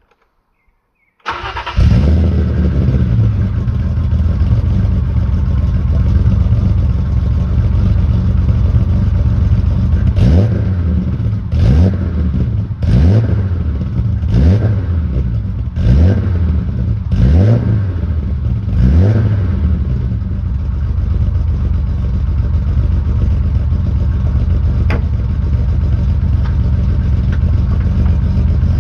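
BMW E30 325i's M20B25 2.5-litre straight-six firing up from cold about a second in through a Magnaflow exhaust, then idling steadily. About ten seconds in it is blipped seven times in quick succession, each rev rising and falling, before it settles back to idle.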